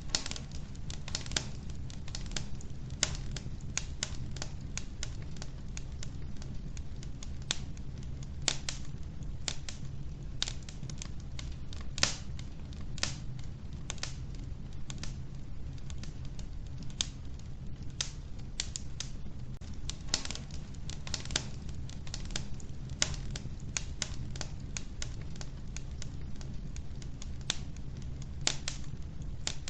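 Log fire crackling in a wood-burning stove: frequent sharp, irregular pops and snaps over a steady low rumble.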